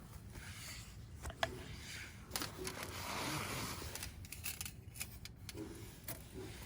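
Wood fire crackling, with scattered sharp pops and snaps, several in a quick cluster around the middle.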